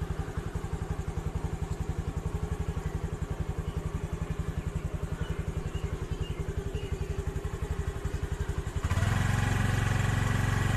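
A two-wheeler's engine idling with a steady, rapid low chug, then rising in revs and running louder and smoother about nine seconds in.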